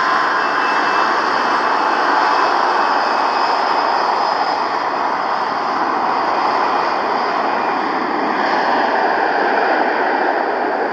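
Airbus A319 jet engines at takeoff power, a loud steady rush of jet noise with a faint high whine above it, as the airliner departs.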